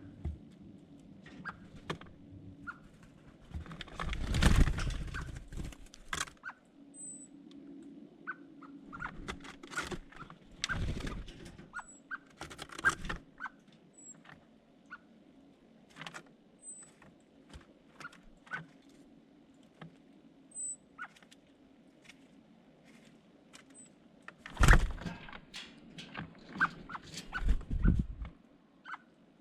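Small birds close to the microphone: scattered pecking taps and scuffles with a few short, high chirps, and two louder bursts of scuffling and fluttering, one about four seconds in and another near the end.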